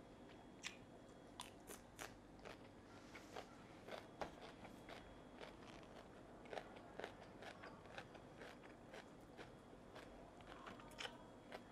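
Close-miked eating: a person biting and chewing cucumber and fried fish balls, with irregular crisp crunches and mouth clicks, one or two a second.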